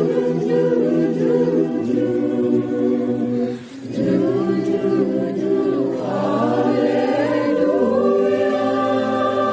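Choir singing a Christmas carol in harmony, with long held chords and a short breath between phrases about three and a half seconds in.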